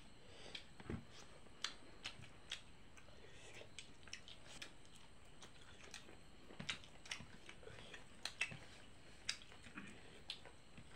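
A person eating rice by hand and chewing: irregular soft clicks and smacks of mouth and food, several a second at times.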